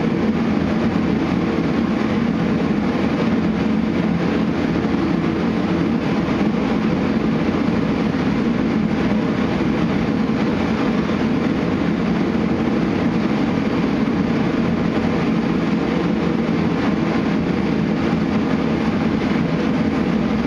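A steady, unchanging machine roar, most of it low and rumbling.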